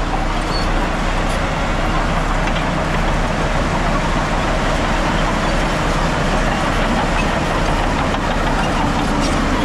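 Heavy diesel earthmoving machinery running steadily under load, with a constant low engine hum and clattering noise.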